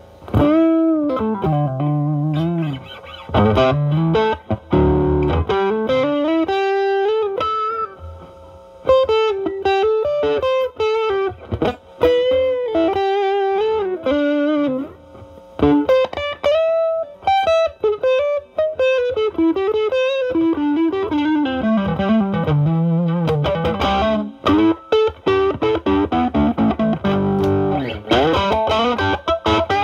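Electric guitar (Stratocaster) played through a Klon-style overdrive pedal into a Marshall Valvestate's drive channel, with the pedal's gain at 9 and the guitar's volume rolled back to clean up the tone. The playing is improvised single-note lead phrases with string bends and wavering vibrato, and strummed chords near the start and again near the end.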